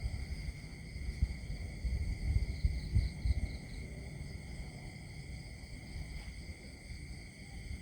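Countryside nature ambience: steady high-pitched ringing chorus over a low, gusty rumble that is strongest in the first half.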